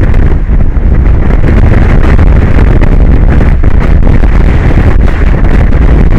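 Strong wind buffeting the microphone: a loud, steady, low rumbling blast of noise.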